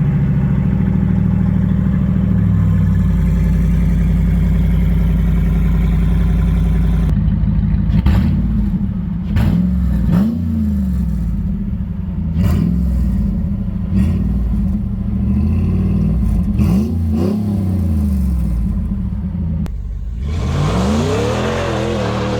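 5.7-litre Hemi V8 of a 2017 Ram 1500, exhaust fitted with an electric cutout, idling steadily and then blipped in a series of quick revs that rise and fall, with a longer rev near the end.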